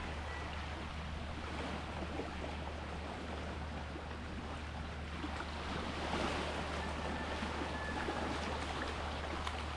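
Sea waves washing, a steady rush of water that swells a little about six seconds in, over a constant low hum.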